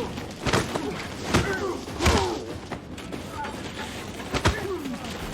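Scattered gunshots in a film battle sound mix: four sharp reports at uneven intervals, about half a second, a second and a half, two seconds and four and a half seconds in.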